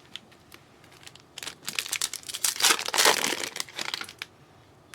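A trading-card pack wrapper crinkling as it is handled and opened: a dense crackle from about a second and a half in, loudest around the middle, dying away near four seconds.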